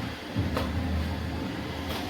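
iRobot Roomba 692 robot vacuum running with a steady low motor hum and brush noise. It dips briefly near the start, and two short clicks come about half a second in and near the end.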